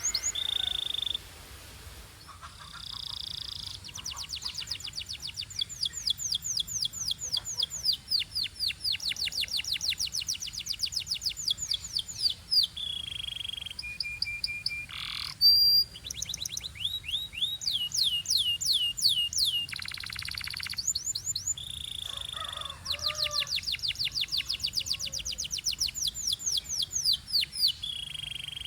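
Belgian canary singing: long, fast trills of rapidly repeated sweeping notes, broken now and then by short held whistles at a steady pitch and one sharp, loud note about midway.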